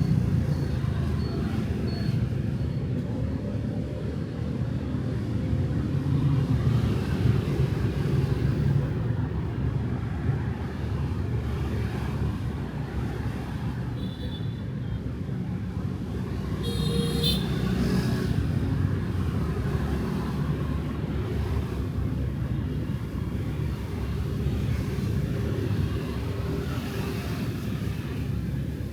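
Night city street traffic, motorbikes and cars passing in a steady low rumble, with two short horn toots about halfway through.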